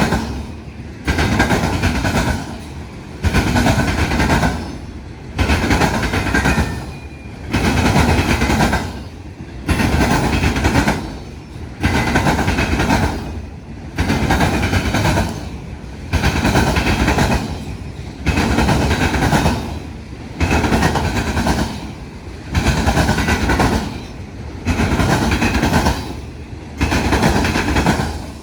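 Freight train of autorack cars rolling across a railroad diamond crossing, steel wheels banging and clattering over the crossing in a regular loud pulse that comes back about every two seconds as each car's trucks pass, with steady rumble in between.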